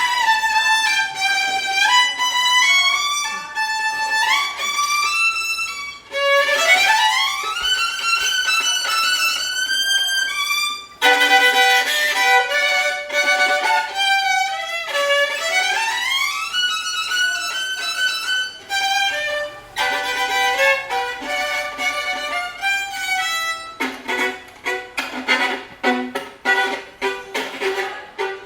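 Violin played solo: a melody of held notes with vibrato and long upward slides between them, turning into quick, short detached notes near the end.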